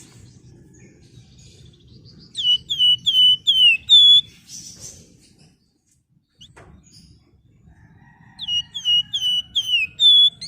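Flamboyan songbird singing two phrases of five or six quick, loud whistled notes, each note sliding down in pitch and the last note of each phrase higher. A faint low hum runs underneath.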